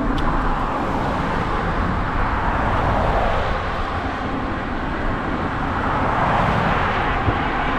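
Steady rush of wind buffeting the microphone on a downhill bicycle ride, mixed with road traffic noise that swells twice.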